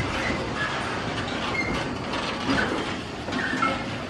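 Freight train of covered hopper wagons rolling past, wheels clattering over the rail joints, with a few short, high wheel squeals.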